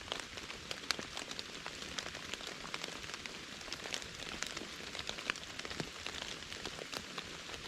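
Steady light rain falling, an even patter with many small, scattered drop ticks.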